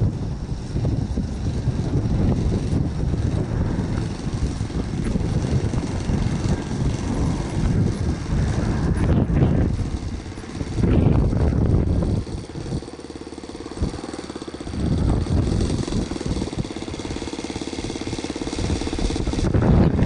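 RC model airplane engine running steadily under heavy wind buffeting on the microphone, which swells in several strong gusts.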